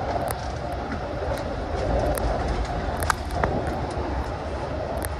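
Long Island Rail Road commuter train running at speed: a steady rumble of wheels on rail, with scattered sharp clicks and rattles, the loudest about three seconds in.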